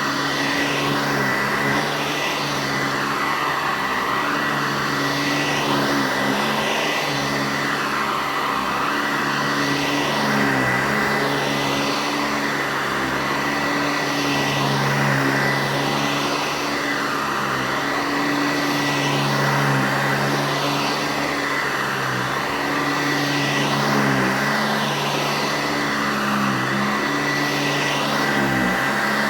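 Eureka Heavy Duty Commercial C2094 upright vacuum running, with a steady high whine over the motor hum. The pitch dips and rises again every second or two.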